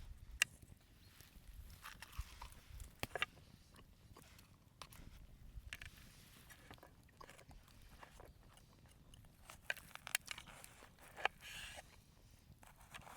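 Irregular small clicks and crunches from close-up handling, with a few sharper snaps.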